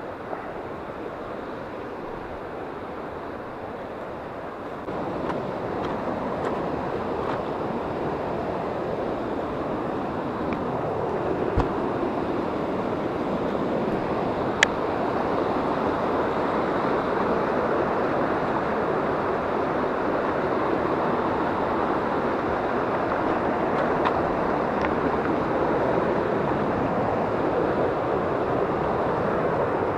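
Mountain river water rushing steadily, louder from about five seconds in, with a couple of faint clicks.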